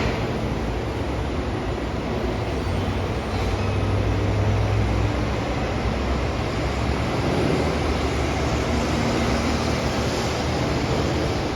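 Rubber-tyred monorail train running along its concrete guideway: a steady rumble with a low hum that swells about three to five seconds in.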